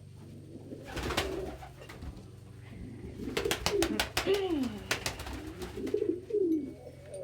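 Domestic pigeons cooing, low swooping coos repeated through the second half, with a quick run of sharp clicks in the middle.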